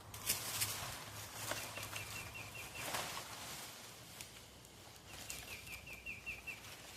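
A small bird sings twice, each time a quick series of repeated high chirps lasting about a second, over intermittent rustling and crackling from handling materials.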